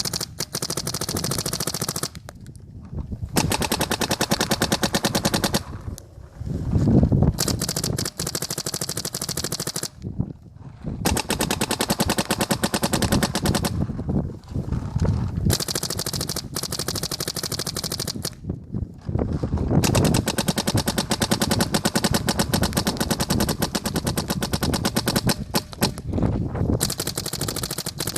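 Bob Long paintball markers with poppet engines firing in long rapid strings of shots, broken by several short pauses.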